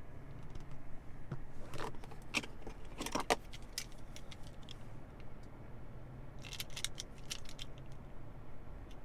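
Two clusters of light clicking and jingling, one about two seconds in and one about six and a half seconds in, over a steady low hum.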